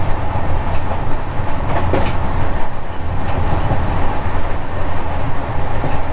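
Himsagar Express passenger train running at speed, a loud steady rumble of wheels on rails with a few sharp clacks over rail joints, heard from an open coach door.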